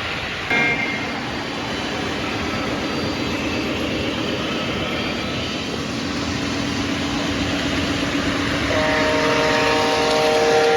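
Lionel model trains running on the layout's track with a steady rumble. A horn sounds a short toot about half a second in, then a long horn blast near the end.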